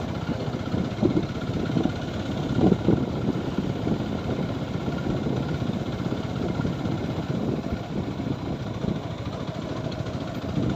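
TVS Apache 4V motorcycle's single-cylinder engine running on the move, an uneven continuous rumble.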